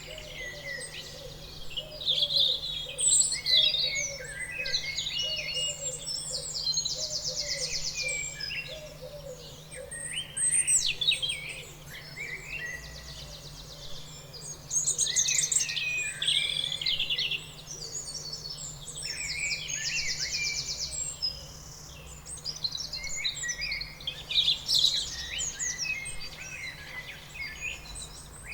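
Many birds singing and chirping at once, overlapping warbles and calls, with one buzzy trill repeating about every six to seven seconds.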